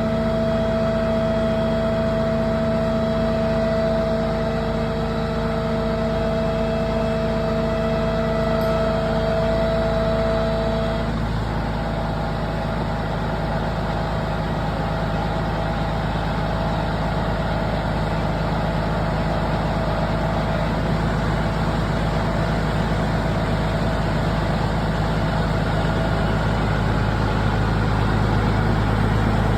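A heavy vehicle's engine running steadily. Two steady whine tones sit over it and cut off about eleven seconds in, while the engine carries on.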